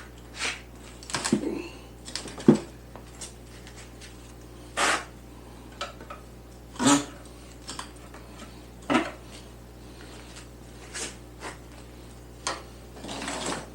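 Scattered metal clanks and knocks, about a dozen, as a Kawasaki KZ440 engine is shifted and turned by hand while being fitted into the motorcycle frame. The loudest clank comes about two and a half seconds in.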